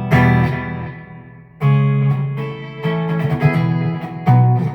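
PRS SE Hollowbody II electric guitar played through a Peavey Vypyr X2 modeling amp with its effects bypassed: a handful of strummed chords, each struck and left to ring.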